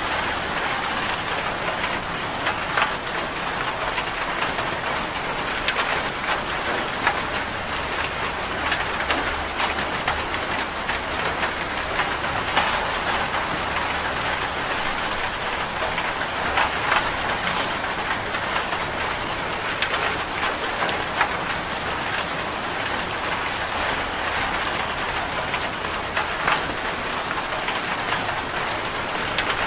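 Steady rain falling, with many small scattered drop ticks on a surface.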